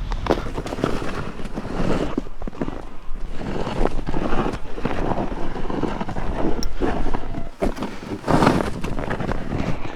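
Wind buffeting the microphone, a steady rumbling noise with irregular gusts.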